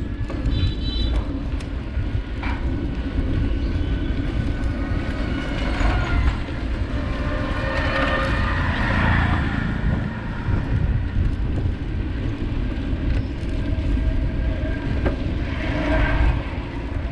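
Steady wind buffeting the microphone and road rumble from riding a bike along a road, with a louder passing rush about eight to nine seconds in.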